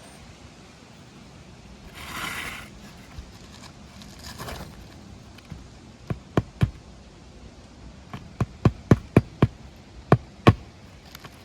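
Hammer driving roofing nails into an asphalt shingle: about eleven sharp strikes in three groups (three, then a quick run of six, then two). Two brief scraping sounds come before the first strike.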